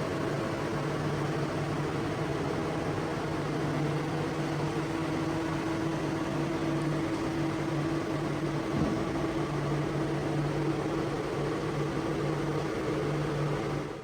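An electric motor running steadily, a low hum with a broad hiss over it, typical of a carpet-cleaning machine at work.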